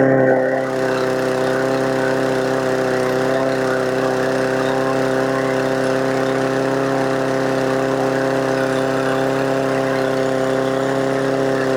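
Walk-behind lawn mower's small engine running steadily at high speed with a constant pitch. It is being test-run after a governor spring adjustment meant to cure over-revving, and the owner can't tell whether it sounds right.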